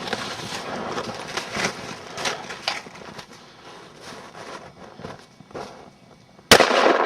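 Pump air gun being handled, with scattered light clicks, then about six and a half seconds in a sudden loud crack as it is fired at a glass bottle, followed by continuing loud noise.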